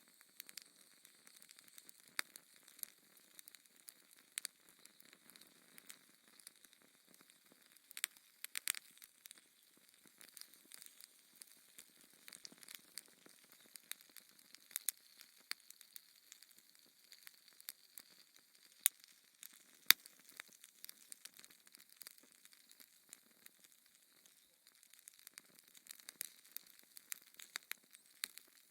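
Wood fire in a fireplace crackling: a soft hiss with irregular sharp pops and snaps, two louder pops near the end.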